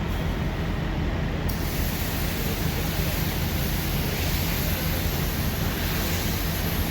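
Steady hiss of high-pressure water spray washing a semi truck, over a low steady hum; the hiss turns brighter about a second and a half in.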